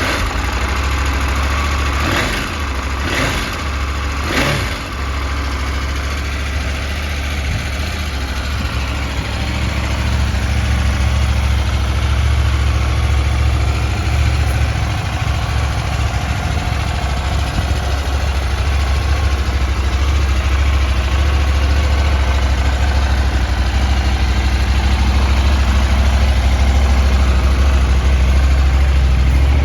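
KTM 790 Adventure's parallel-twin engine idling steadily after a start, with three short bursts about two to five seconds in.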